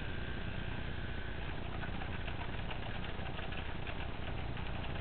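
HO scale model train running on layout track: a steady motor and running noise with faint, irregular light clicks from the wheels on the rails, and a faint high whine that fades out in the first second or so.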